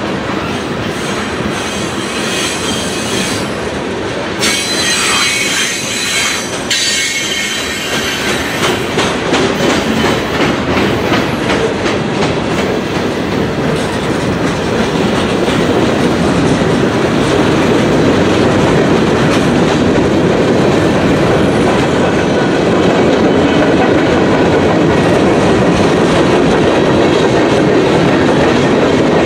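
A train's cars rolling past at close range, wheels clacking over the rail joints in a steady rhythm, with a high squeal of steel wheels on the rail a few seconds in. The rolling noise grows louder in the second half.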